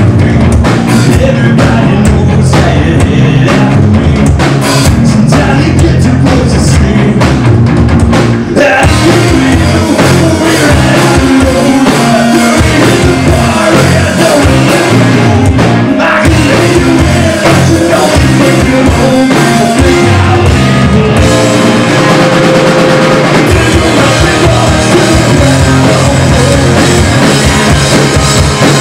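Live rock band playing a song: drum kit, electric guitar and singing. About eight seconds in the sound gets fuller and brighter.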